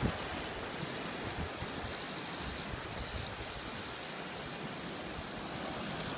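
Steady rush of ocean surf with wind noise on the microphone.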